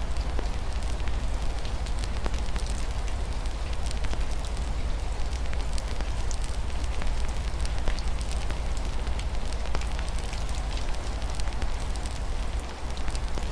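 Wood fire crackling, with many small sharp pops at irregular intervals over a steady hiss of rain and a deep continuous rumble.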